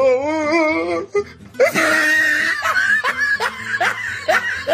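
Comedy meme sound effects: a wobbling, warbling pitched sound for about a second, then after a short break laughter over music, a quick run of short rising cries about three a second.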